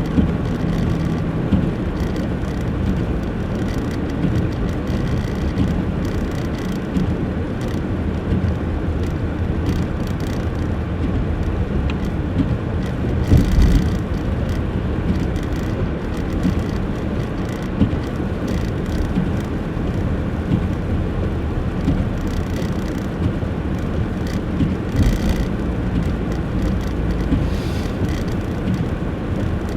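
Car driving slowly on a snowy road: a steady rumble of engine and tyres, with one short thump about thirteen seconds in.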